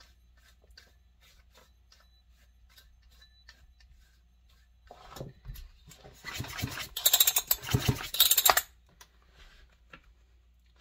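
Light clicks and knocks of chainsaw parts being handled on a bench. From about six seconds in comes a loud rattling, scraping burst lasting about two and a half seconds.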